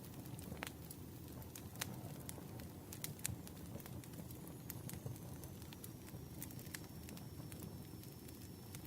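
Campfire burning: wood crackling with irregular sharp pops over a steady low rumble. A faint thin high whistle comes in about halfway.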